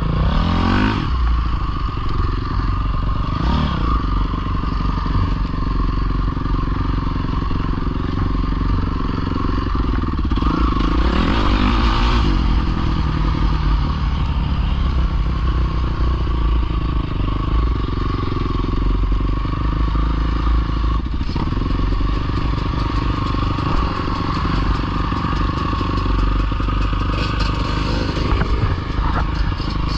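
Dirt bike engines running continuously, revving up in rising sweeps near the start, about three and a half seconds in, and again around eleven to twelve seconds in.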